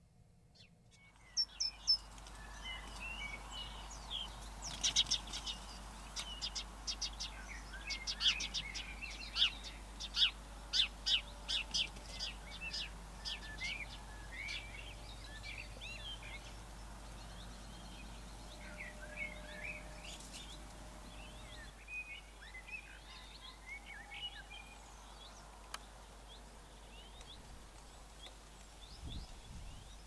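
Songbirds singing and calling in a garden, with many overlapping chirps and whistles starting about a second in. Between about 5 and 13 seconds in there is a run of loud, quick notes. A faint steady low hum runs underneath.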